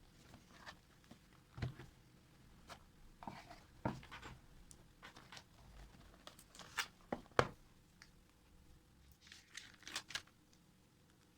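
Scattered light clicks, knocks and rustling of household things being handled, the sharpest knock a little past the middle and a short cluster of rustles near the end.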